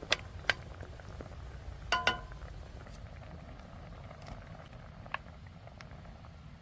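Cooking sounds: a couple of sharp clicks, then a ringing metal clink about two seconds in, like a utensil striking cookware, with scattered light ticks over a steady low rumble.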